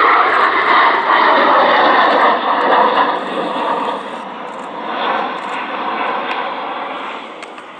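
Jet aircraft flying past at an air show: a loud engine rush that weakens from about halfway through and fades as the aircraft draws away.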